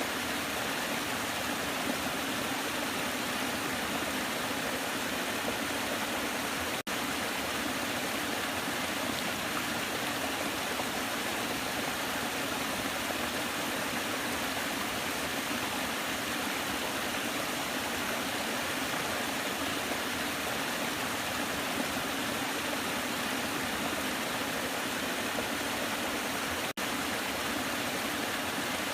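Waterfall: a steady, even rush of falling water, with two momentary dropouts about 7 and 27 seconds in.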